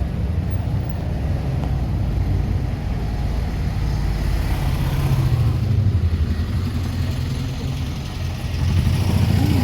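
Road traffic: a motor vehicle engine running close by as a steady low rumble, swelling about five seconds in and again near the end.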